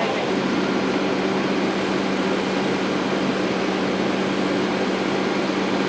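Steady mechanical drone of a running engine with a constant low hum beneath a wide rushing noise. It cuts off abruptly at the end.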